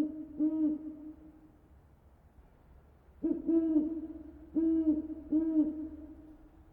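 A bird giving low hooting calls: pitched notes in short groups, with a pause of about two seconds in the middle.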